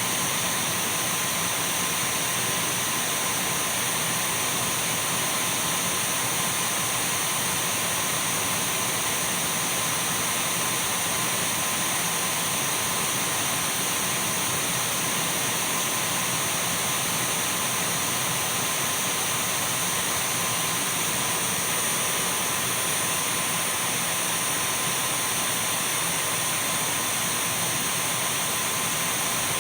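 Dyson V12 cordless stick vacuum cleaner running steadily: a constant rush of airflow with a thin, steady high whine from the motor, unchanging throughout.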